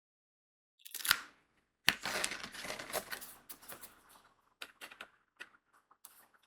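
Small crystal diamond-painting drills rattling in a dense crackle for about two seconds, as if poured or shaken in a plastic tray, then thinning to scattered light clicks.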